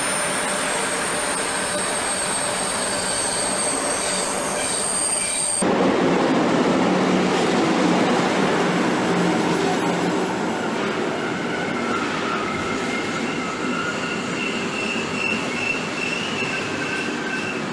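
A Deutsche Bundesbahn Class 103 electric locomotive and its passenger coaches running into the platform and past at close range, the rolling noise growing louder once the locomotive is alongside. In the first five seconds a high whine stops abruptly. In the later part, squealing from the wheels and brakes comes in at two pitches as the train slows.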